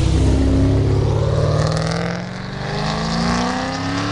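Muscle car engine accelerating hard, its pitch climbing steadily over several seconds, with a brief dip in loudness about two seconds in.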